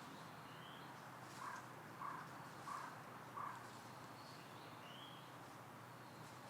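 Quiet park ambience with a few faint thin bird notes. Between about a second and a half and three and a half seconds in come four short, evenly spaced, louder sounds.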